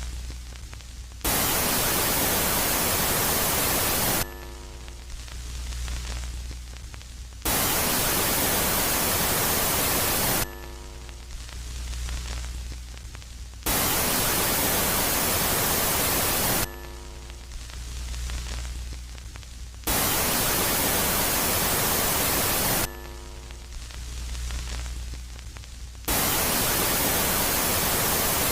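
Electronic space-ambience sound that alternates between a loud phase of static-like hiss lasting about three seconds and a quieter phase of low hum with faint steady tones that swell up. The cycle repeats about every six seconds.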